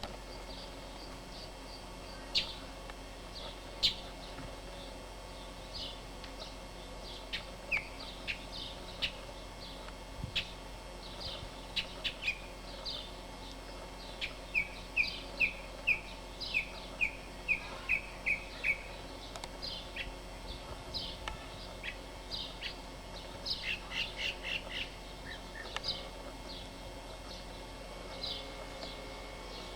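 Small birds chirping: short high chirps scattered throughout, with a quick run of about eight in a row around the middle and another cluster a little later.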